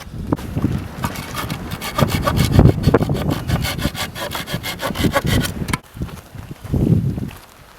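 Rapid, even rasping strokes for about five seconds that stop suddenly, then one short scrape near the end.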